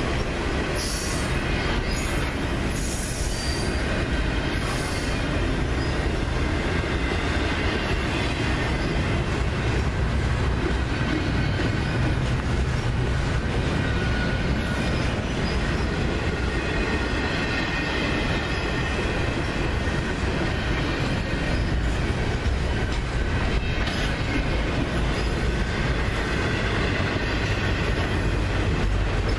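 Double-stack intermodal freight train rolling past: a steady rumble of steel wheels on the rails, with high-pitched wheel squeal coming and going over it.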